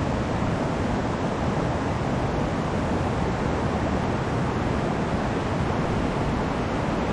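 Steady rush of a small mountain stream's water flowing over rocks, an even, unbroken noise.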